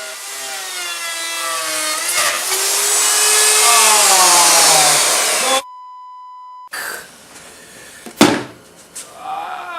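Router with a flush trim bit cutting along a wood edge: a loud whine and cutting noise whose pitch slowly drops as the motor loads up, then stops abruptly. It is followed by about a second of a steady edited-in bleep tone and, about eight seconds in, a single sharp knock.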